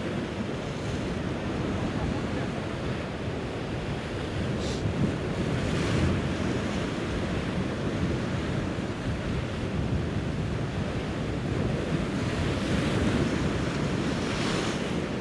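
Sea waves washing against a rocky shore on a flooding tide, with wind buffeting the microphone. The surf swells louder about six seconds in and again near the end.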